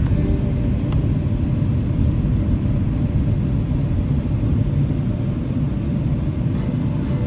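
Steady low rumble of an airliner cabin: engine and airflow noise heard from inside the plane, with a faint click about a second in.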